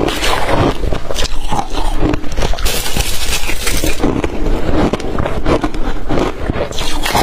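A person biting and chewing blender-crushed ice, close-miked, with dense irregular crunches all the way through.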